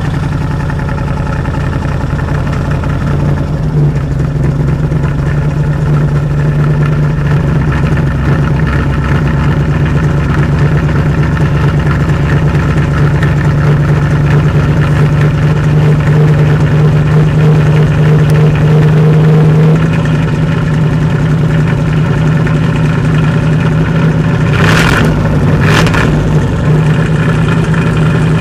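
Pontiac Firebird Trans Am's 305 small-block Chevrolet V8, with throttle-body injection and no catalytic converter, idling steadily just after a cold start. Two sharp clicks about a second apart near the end.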